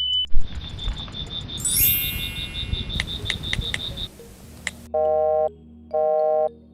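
Added sound effects: about four seconds of rumbling noise with a fast, steady row of high pips and a few sharp clicks, then three identical beeps about a second apart.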